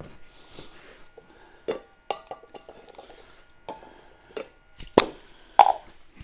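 Irregular metallic clinks and knocks, some with a short ring, as a freshly welded steel bracket and tools are handled. The loudest two come near the end.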